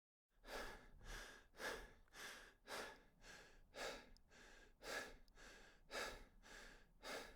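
A person breathing fast and rhythmically, about two breaths a second. It starts suddenly out of silence.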